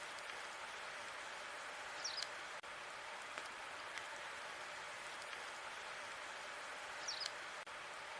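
Wood fire burning in a fireplace: a steady hiss with sparse small crackles and pops, and two brief high chirps about five seconds apart.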